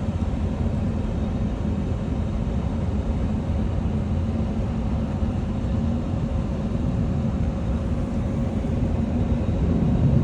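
Jet airliner engines running with a steady low rumble, mixed with strong wind noise, growing a little louder near the end.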